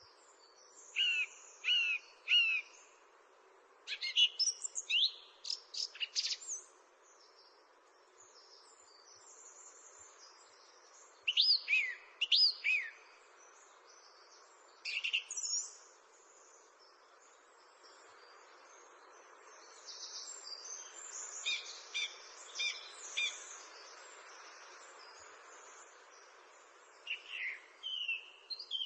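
Songbirds singing in short phrases of quick, high chirps and sweeping notes, a few seconds apart, over a steady faint hiss.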